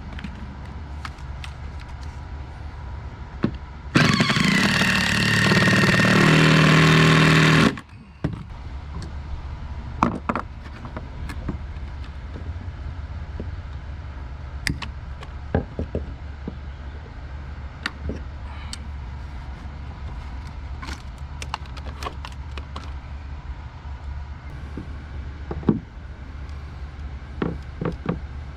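A power tool motor runs for about four seconds, settling to a steady pitch partway through, then cuts off suddenly. Scattered sharp knocks and clicks of tool handling on wood come before and after.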